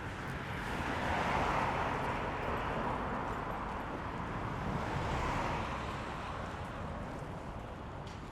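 Rushing tyre and road noise from passing cars, swelling to a peak about a second in and again about five seconds in, then fading.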